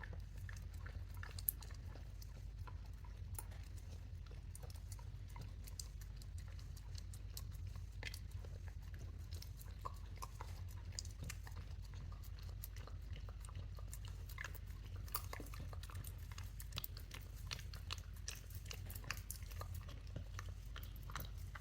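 Beagle-dachshund mix dog licking and chewing peanut butter: a steady run of small, irregular mouth clicks, over a steady low hum.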